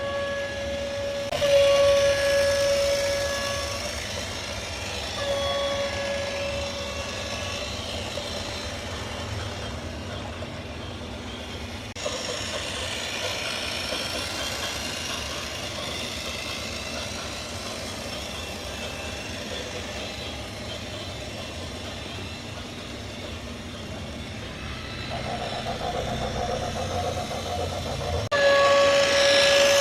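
A vehicle horn sounding in long blasts of one steady pitch, three times, over a running engine and traffic rumble. The sound changes abruptly twice, as if cut between clips.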